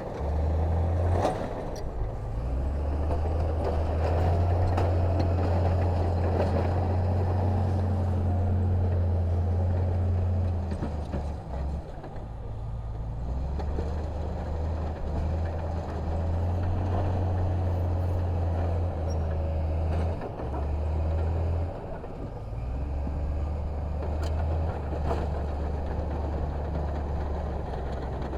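Heavy diesel engine of earthmoving machinery running under load, its low drone stepping up and down and easing off briefly a couple of times.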